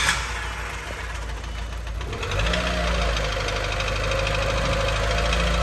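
Nissan Figaro's 1.0-litre turbocharged four-cylinder engine idling just after a start, with the accessory belts off and a rapid knock running through it. It gets a little louder about two seconds in. The owner suspects the knock is rod knock, and possibly a spark plug or wire not firing. The Figaro specialist suspects piston slap.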